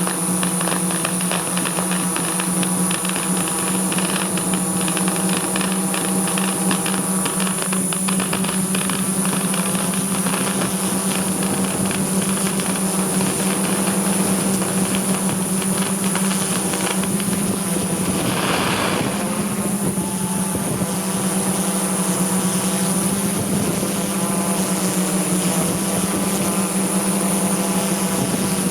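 Multirotor drone's propellers and motors whining steadily, with a strong even hum and a high whine over it. A dense run of rapid crackling clicks sounds through the first half.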